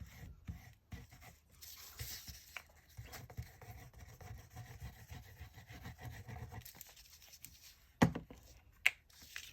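Faint rustling and rubbing of paper and cardstock being handled and pressed down on a desk, with two sharp taps near the end.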